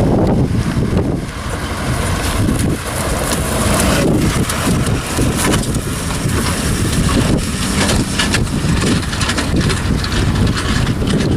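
Strong gusty wind buffeting the microphone: a loud, deep rumbling roar that swells and eases, with scattered brief crackles.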